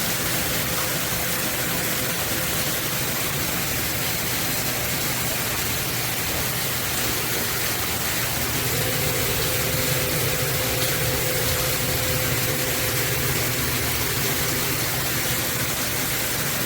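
BOWGER handheld high-pressure shower head spraying water steadily, a constant even rush of water.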